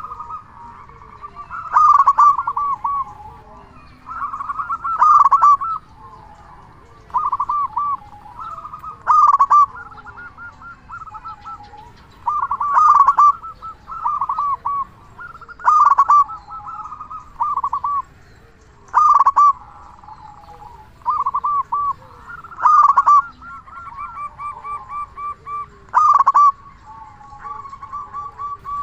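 Local zebra dove (perkutut) cooing loudly, repeating its phrase about every three seconds: a sharp opening note, then a quick run of rolling coos.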